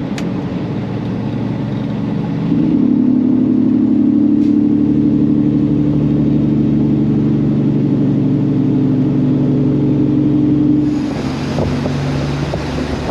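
Peterbilt semi truck's diesel engine droning in the cab, getting louder about two and a half seconds in as it pulls and holding steady. Near the end the engine tone drops away and a hiss of road and wind noise takes over.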